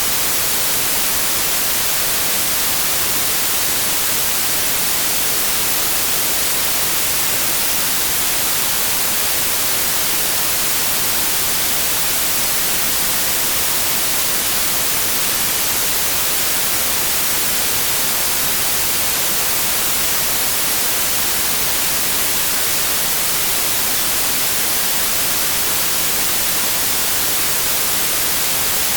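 Steady, loud synthetic white noise: an even hiss across all pitches, brightest in the highs, unchanging throughout.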